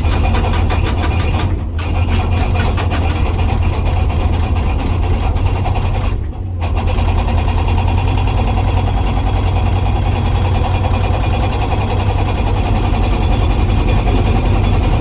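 Komatsu PC200 hydraulic excavator's six-cylinder diesel running steadily under load, with the hydraulic rock breaker hammering rapidly. The hammering breaks off briefly about two seconds in and again about six seconds in.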